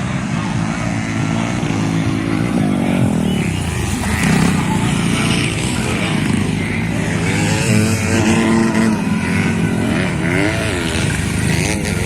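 Several motocross bike engines revving on the track, their pitches rising and falling and overlapping as the bikes accelerate and back off.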